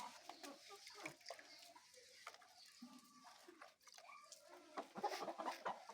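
A flock of chickens clucking: scattered short calls, with a louder run of clucking near the end.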